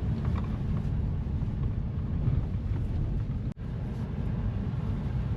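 Steady low road and engine rumble heard from inside a moving car's cabin. It cuts out for an instant about three and a half seconds in.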